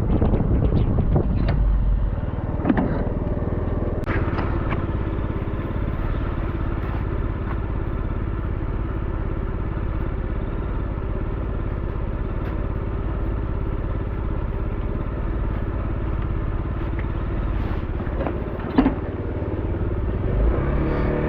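Small motor scooter's engine running steadily while it is ridden, picking up revs near the end. A few knocks and rattles come through, the sharpest about 19 seconds in.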